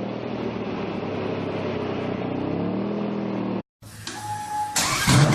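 Lamborghini Diablo V12 engine running, rising in pitch as it revs near the end, then cut off suddenly. After a short gap, a brief steady tone sounds and then loud music starts.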